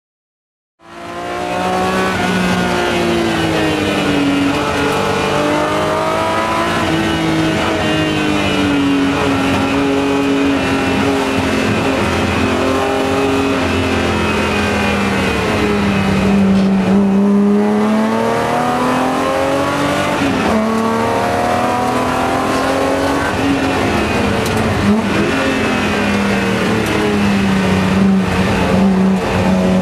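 BMW M3 engine heard from inside the cabin during a drift run, starting suddenly about a second in. The revs swing up and down again and again as the car slides sideways.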